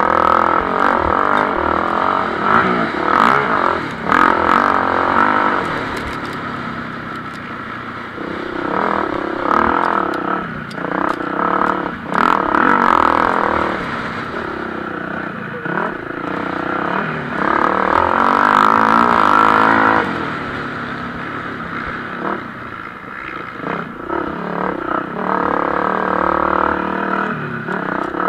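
Motocross bikes racing, engines revving up and falling back as the riders work through the gears. Individual bikes get louder as they pass close, most plainly for a couple of seconds about eighteen seconds in.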